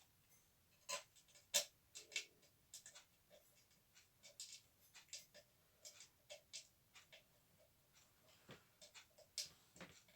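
Faint, irregular clicks and taps, a few a second, of the vacuum cleaner's parts being handled and fitted together during reassembly.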